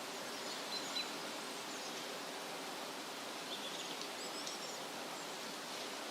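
Wind rustling through leafy trees as a steady hiss, with faint high bird chirps about a second in and again near the middle.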